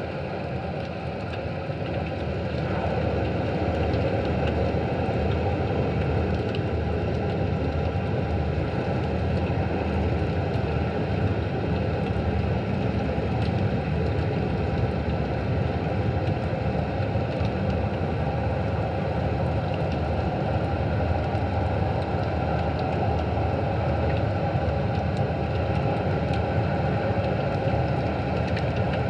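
Underwater ambience picked up by a camera in its housing: a steady low rumble with faint scattered clicks, growing a little louder about two seconds in.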